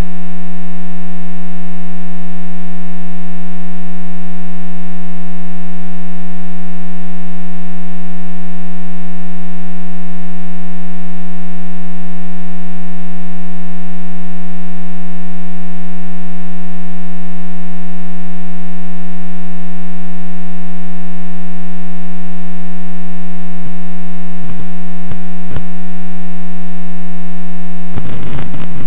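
Loud, steady electrical hum with many even overtones, like a buzz picked up in an audio line. A few sharp clicks come near the end, and the hum breaks up into crackling just before it ends.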